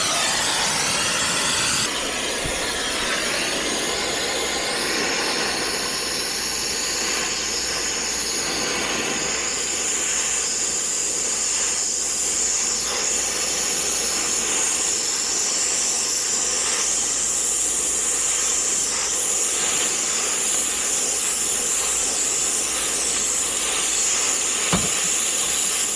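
Brazing torch burning with a steady hiss while a copper refrigerant line set is brazed; the hiss drops slightly about two seconds in.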